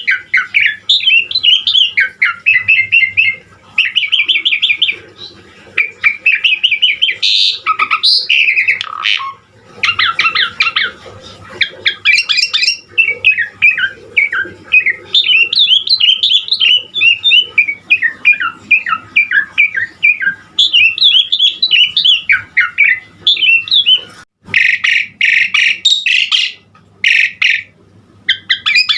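Javan pied starling singing without pause: a long, fast run of varied whistled notes, chatters and harsh squawks, with a denser burst of chattering near the end.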